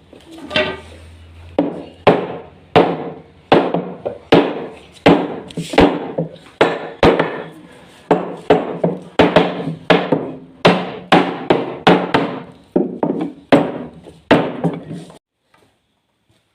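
Hammer blows on wood in a steady rhythm, about three every two seconds, each with a short ringing tail, stopping shortly before the end.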